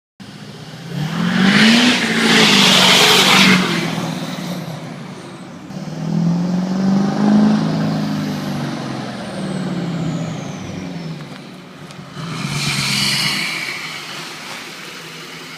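2013 Duramax LML 6.6-litre V8 turbodiesel with an aftermarket MBRP exhaust, revving up and dropping back three times. A loud hiss rides over the first and last revs.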